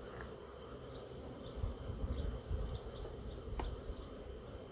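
Honeybees buzzing steadily over an open hive, with low rumbling bursts on the microphone from about a second and a half in and a single sharp click a little later.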